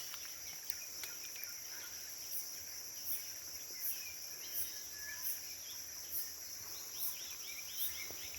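Tropical forest insects droning steadily at a high pitch, with a short high chirp repeating about every three-quarters of a second.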